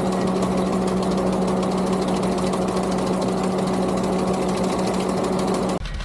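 Skid steer running with its hydraulic sickle bar mower working: a steady hum under a fast, fine clatter. Near the end the hum and clatter cut off suddenly, leaving only the lower engine rumble.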